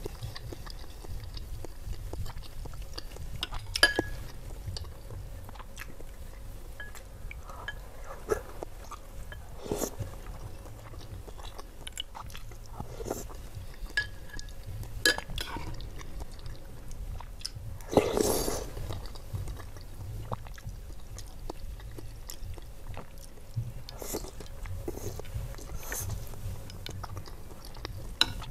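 Close-miked chewing of lontong sayur, rice cake and egg in coconut curry, with the mouth closed, broken by a few sharp clicks of a spoon and fork against a glass bowl. One louder, longer noise stands out about two-thirds of the way through.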